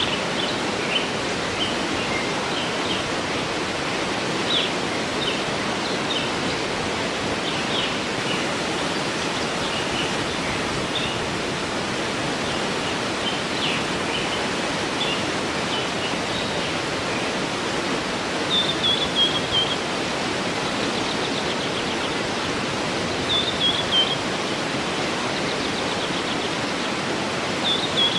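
Waterfall rushing steadily, with small birds singing over it: scattered short, high chirps throughout and a quick falling trill that comes three times, about five seconds apart.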